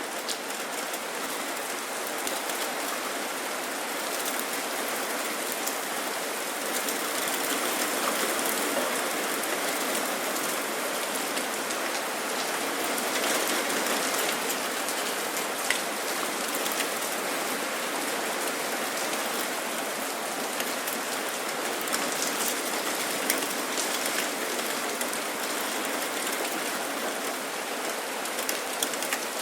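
Steady rain falling, with scattered sharp taps of single drops landing close by, a few more of them near the end.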